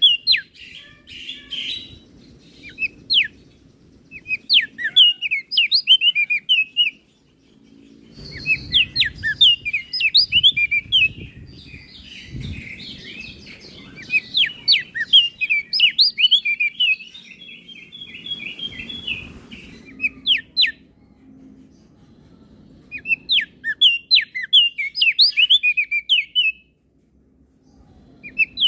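Crested white-eye (opior jambul) singing: rapid twittering phrases of quick chirps and whistled sweeps, in several bursts broken by short pauses, with one long phrase running through the middle.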